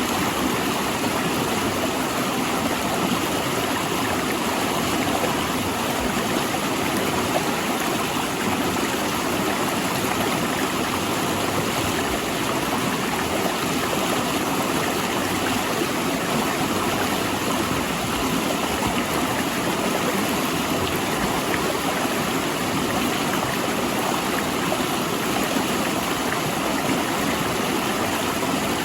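A river rushing between large rocks, a steady, even roar of flowing water.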